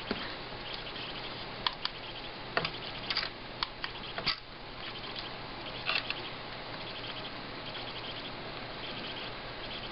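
Several light, sharp clicks and taps from handling a desoldered electrolytic capacitor and meter probes while measuring its capacitance and ESR. The clicks fall in the first six seconds over a steady background hiss and hum.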